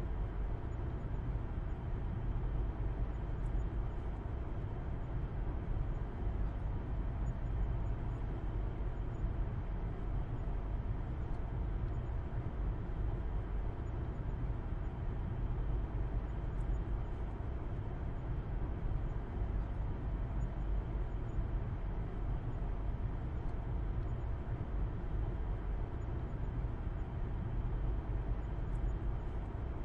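Steady low rumble of a car driving at constant speed: road and engine noise, with no changes in pace.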